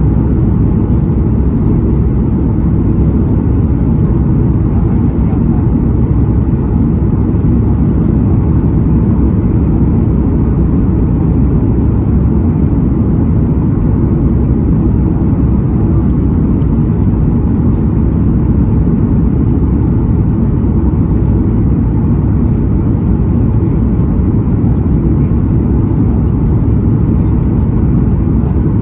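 Steady low rumble of cabin noise aboard a Boeing 737 MAX 9 airliner: engine and airflow noise, even in level throughout.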